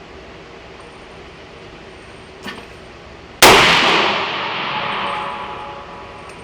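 A 300 Blackout rifle fires a single shot about three and a half seconds in, loud and sudden, with a long echoing tail that fades over a few seconds. A faint click comes about a second before the shot.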